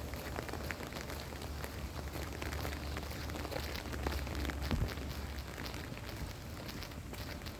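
Rain falling, with many small drops pattering and ticking over a steady hiss, above a low steady rumble.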